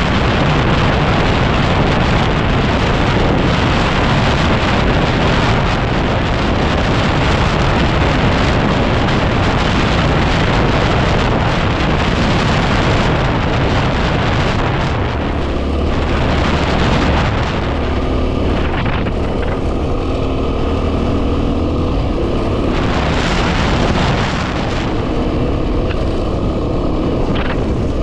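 Heavy wind buffeting on the microphone over a 2010 Yamaha WR250R's 250 cc single-cylinder engine running under way. About halfway through the wind eases and the engine's steady note comes through more clearly.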